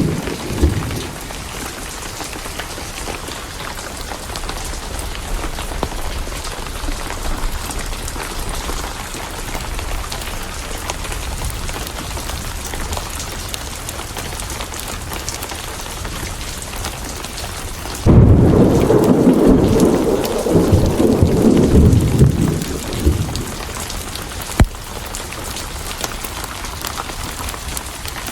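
Steady heavy rain. A thunder rumble dies away in the first second, and about two-thirds of the way through a loud roll of thunder breaks suddenly and rumbles on for several seconds. A single sharp click comes shortly after it.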